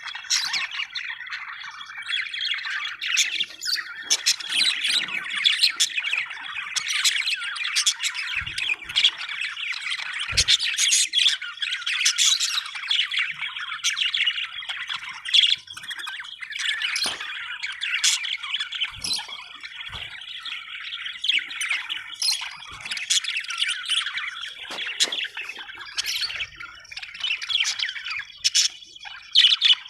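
A group of budgerigars chattering continuously, a dense warbling with sharp calls, with a few short knocks now and then.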